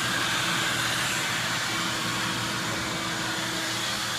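Vacuum cleaner running steadily, sucking walnuts and mouse-nest debris out of a truck's cowl below the windshield.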